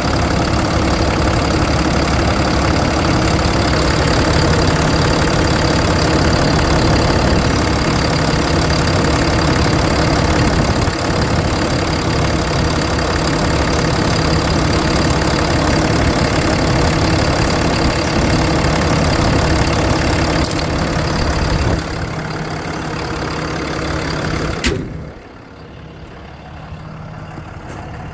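Dodge 5500 truck engine idling, heard close up during a check for crankcase blow-by; it runs loud and steady, then a sharp click comes near the end and the engine sound drops away sharply.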